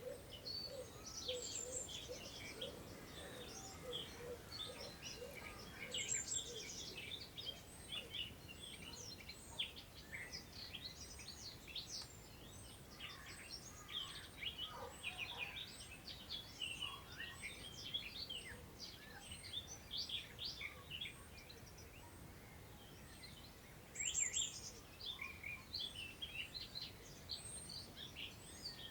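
Several songbirds singing at once in a busy mix of chirps and trills, with a thin high note repeating about once a second and a louder burst of song about 24 seconds in. Under it is a soft hiss of wind through long meadow grass.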